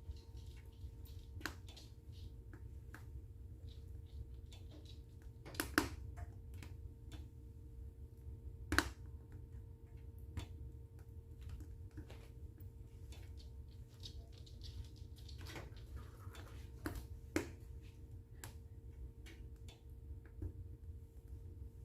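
Wood fire in a fireplace crackling, with scattered sharp pops, the loudest a little after five seconds in, near nine seconds and near seventeen seconds, over a low steady rumble.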